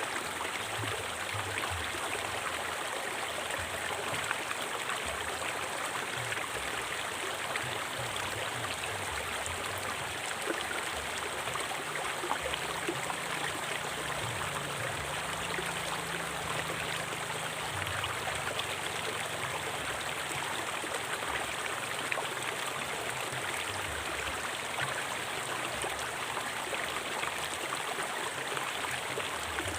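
A river flowing over rocks in a forest: a steady rushing and babbling of water.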